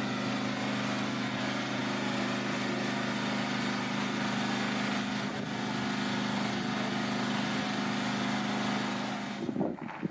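An engine running steadily at an even pitch, under a constant hiss. About nine seconds in it cuts to irregular, gusty buffeting noise.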